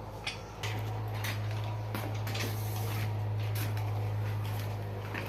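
A steady low hum that comes on about half a second in and holds, with scattered sharp metallic clicks and knocks from work on the tractor.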